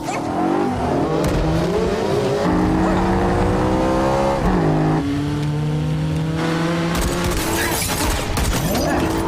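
Car engines racing at high revs in a film car chase, each slowly rising in pitch as it accelerates, with a sudden drop about halfway through like a gear change. Tyres squealing and skidding over the engines in the second half.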